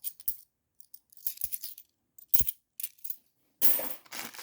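50p coins clinking as they are handled and dropped one by one in a few separate sharp clinks, followed near the end by a longer, noisier clatter.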